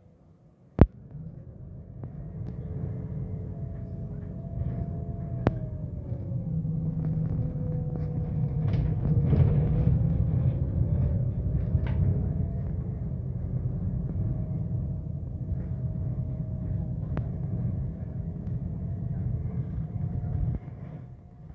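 Scania K270UB bus pulling away and accelerating, with a low engine rumble and the ZF gearbox whining. The whine rises and drops in pitch as it goes through the gears. A sharp click comes about a second in, and the sound cuts off suddenly near the end.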